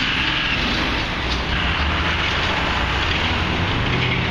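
Steady din of a busy construction site and street: a low engine rumble under a broad wash of noise.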